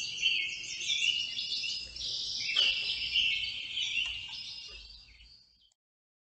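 Several songbirds chirping and singing over one another in quick, varied phrases, fading out about five seconds in.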